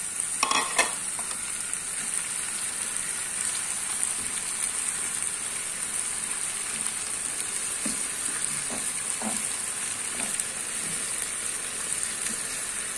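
Green beans, onions and freshly added tomato sizzling steadily in oil in a frying pan while a wooden spatula stirs them, with a few sharp knocks under a second in.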